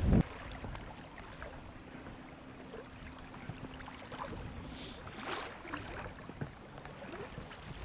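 Small waves lapping against the hull of a fishing boat on the river, with a few light knocks and a brief splash about five seconds in. A loud gust of wind on the microphone stops right at the start.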